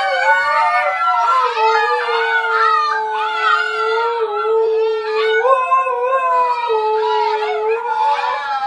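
An adult husky and a litter of husky puppies howling together: one long, steady, lower howl under several higher, wavering puppy howls.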